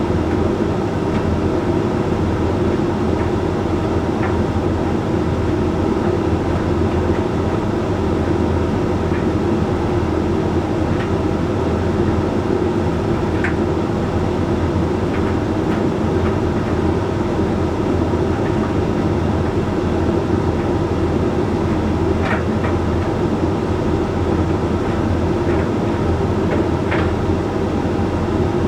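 Hoover Link X Care HLX C10DRGR condenser tumble dryer running steadily mid-cycle: a constant hum and rumble from the turning drum, motor and fan, with a few faint clicks now and then.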